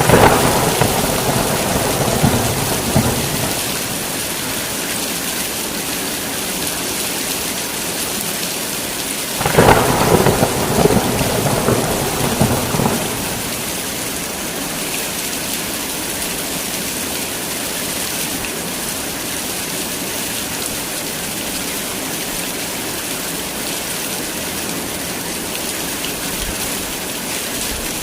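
Heavy rain falling steadily, with a rumble of thunder starting about ten seconds in and lasting a few seconds. An earlier rumble fades out over the first few seconds.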